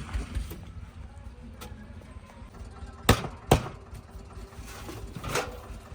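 Tractor engine running steadily at low revs, with two sharp loud knocks about three seconds in, half a second apart, and a softer knock near the end.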